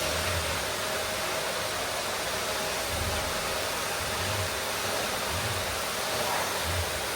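Vacuum cleaner running steadily: a broad, even rushing hiss with a steady motor tone through it. A low rumble swells and fades several times.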